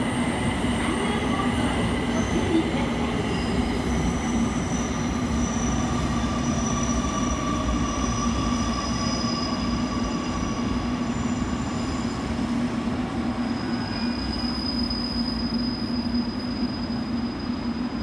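Electric train moving at a station platform: a steady low hum under running noise, with thin high-pitched squealing tones that come and go.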